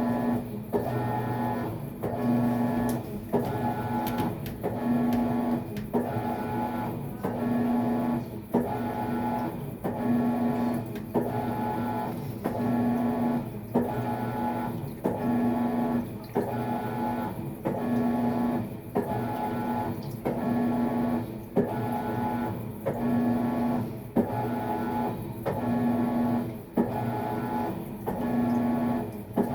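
Maytag MVWX655DW1 top-load washing machine agitating during a tub clean cycle: the drive motor hums through short strokes of about a second and a quarter each, with a brief break between strokes as it reverses, in an even rhythm.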